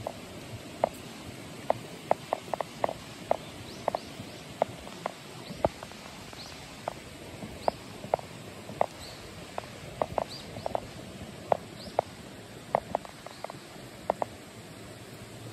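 Mountain stream running with a steady rush and irregular small plinks and gurgles of water, a couple a second.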